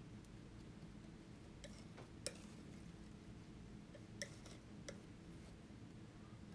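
Near silence with a handful of faint, light clicks, about four, the sharpest about two seconds in and another about four seconds in.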